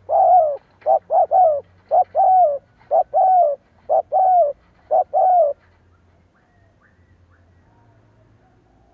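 Spotted dove cooing: a run of about six short-then-long coos, each longer note falling slightly in pitch, stopping about five and a half seconds in.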